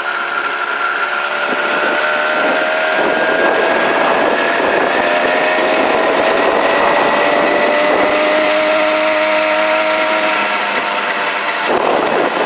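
Motorized bicycle's small gasoline engine running while riding, a buzzy whine whose pitch climbs slowly over about ten seconds as it speeds up.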